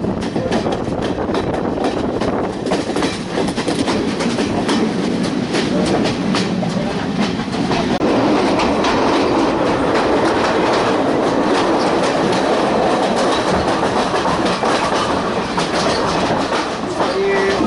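Passenger train running along the track, heard from on board: a steady rumble with the wheels clicking over rail joints. About halfway through it grows louder and fuller.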